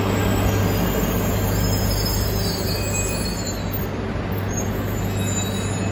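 E3 series mini-shinkansen train rolling slowly along the platform as it pulls into the station: a steady rumble of wheels and running gear with a constant low hum and faint high whines.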